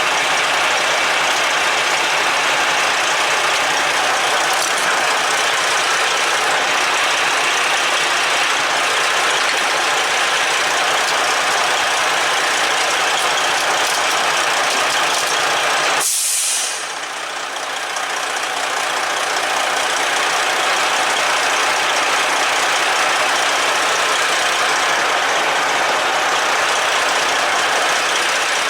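Freightliner Columbia truck's diesel engine idling steadily. About sixteen seconds in there is a short, sharp hiss, after which the engine sound briefly dips before settling back.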